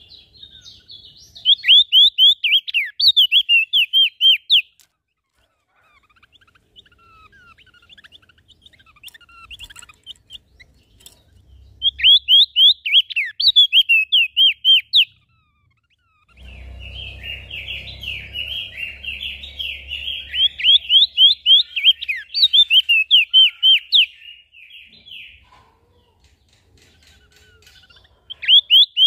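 Small songbirds singing in bursts of rapid, high chirping notes: one burst about a second in, another around twelve seconds in, and a longer, busier chattering stretch in the middle with a low rumble beneath its start.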